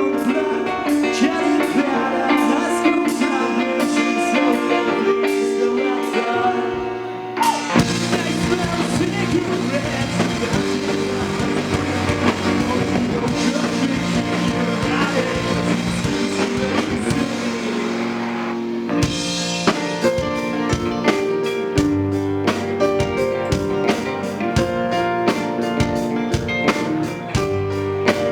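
Live rock band playing an instrumental stretch of a song: guitars, bass and drum kit. The band comes in fuller with cymbal wash about seven seconds in, then switches to a tighter, choppier beat of sharp drum hits shortly past the middle.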